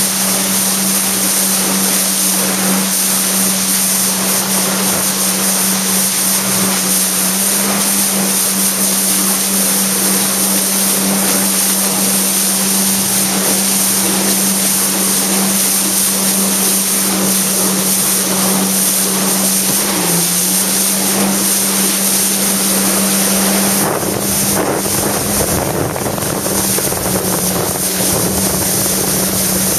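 Jet ski engine running at a steady speed, one constant drone, under loud wind rushing over the microphone and water spray. About three-quarters of the way through, the wind buffeting grows heavier.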